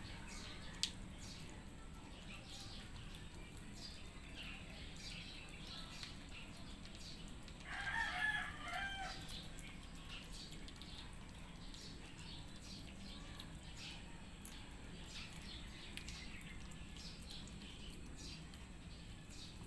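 Cats eating wet food mixed with dry kibble: faint, scattered crunching and smacking clicks. About eight seconds in, a louder pitched call lasting about a second and a half rises above the eating sounds.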